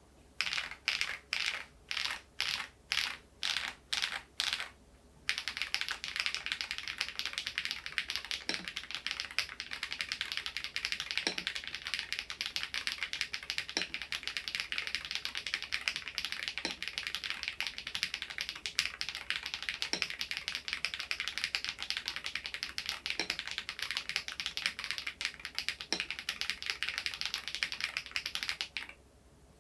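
SMURVE80 retro mechanical keyboard typed on fast. First come about nine short flurries of keystrokes, then continuous rapid clacking for over twenty seconds. A deeper key stroke lands every two to three seconds, and the clacking stops about a second before the end.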